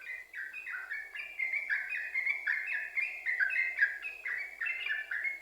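Yellow-vented bulbul (trucuk) singing a fast, unbroken string of short falling notes, the continuous 'sambung ropel' style of song.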